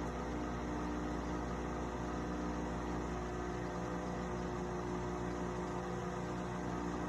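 Steady electrical hum with several constant tones, unchanging throughout.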